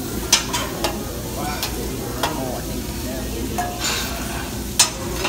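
Fried rice sizzling on a hibachi steel griddle as the chef's metal spatulas scrape and stir it, with several sharp clacks of spatula on steel, the loudest near the end.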